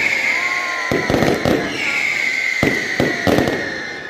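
Fireworks display: clusters of sharp bangs and crackles as shells burst, about a second in and again near three seconds. A high whistle sounds throughout and twice slides slowly down in pitch.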